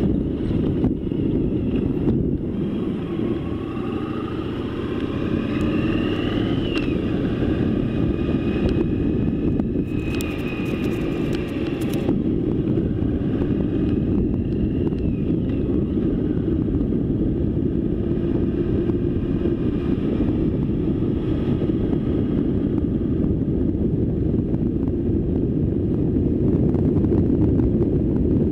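Motorcycle engine running on the move, its pitch rising as it speeds up, under heavy wind rumble on the microphone.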